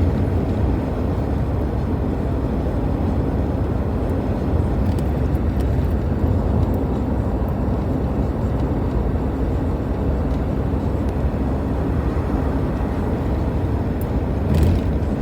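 Steady road and engine rumble inside a moving car's cabin at highway speed, with a brief knock near the end.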